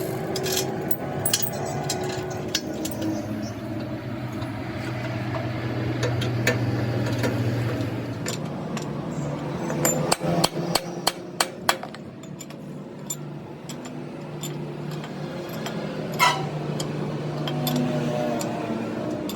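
Hammer striking metal, with scattered taps and a quick run of sharp blows about halfway through, over a steady low hum.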